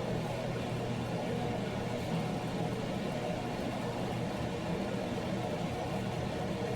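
A steady low hum with a faint even hiss over it, unchanging throughout, like a motor or fan running.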